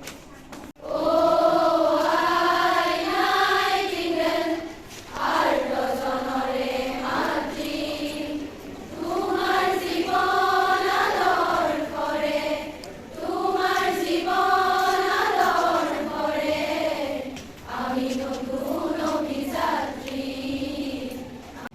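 A group of voices singing a slow melody together in unison, in phrases a few seconds long with short breaks between them; the singing starts about a second in.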